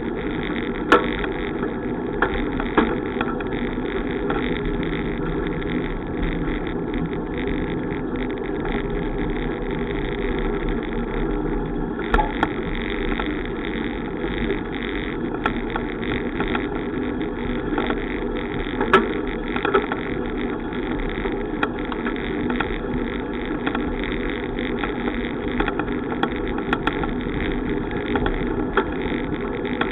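Steady running noise of a bicycle ride picked up by the camera, a continuous rumble and rush with occasional sharp clicks and knocks.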